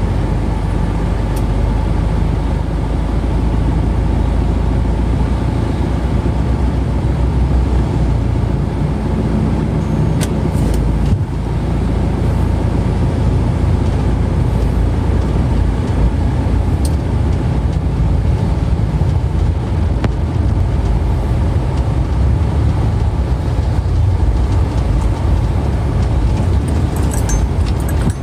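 Steady low rumble of a moving road vehicle, with no speech over it.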